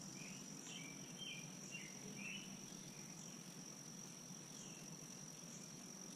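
Faint steady high-pitched insect trill, crickets or similar, with a handful of short bird chirps in the first half.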